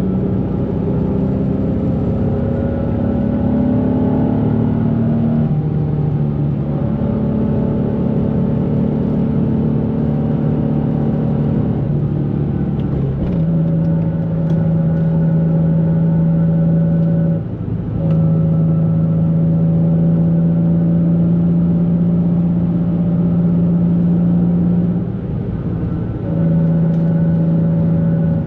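2004 Nissan 350Z's 3.5-litre V6, breathing through a Z1 exhaust and intake, running under way at a steady note. Its pitch steps several times as the gears change, and it briefly drops in loudness twice in the second half.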